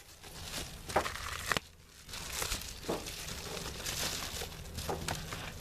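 Crinkling and rustling as a covering is pulled off a small beehive and the hive is handled, with a few sharp clicks and knocks.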